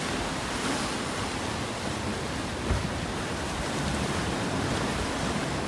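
Steady rush of sea surf mixed with wind, with wind rumbling on the microphone and a low thump a little under three seconds in.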